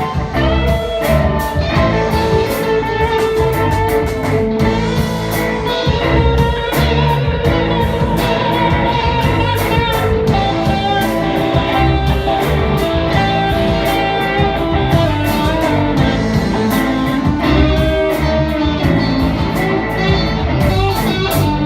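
A live blues band playing an instrumental passage, with guitar out front over a steady beat.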